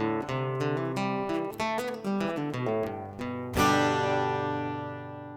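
Acoustic guitar music: picked notes, then a final strummed chord about three and a half seconds in that rings out and fades away.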